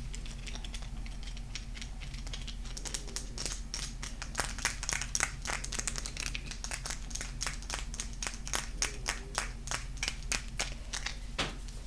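Fingernails tapping and scratching on golden crystal stones: an irregular run of sharp, light taps that grows busier about four seconds in, with a faint steady hum beneath.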